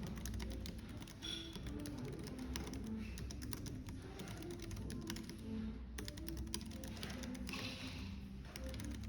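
Rapid typing on a computer keyboard, many quick key clicks over soft background music and a low steady cafe hum.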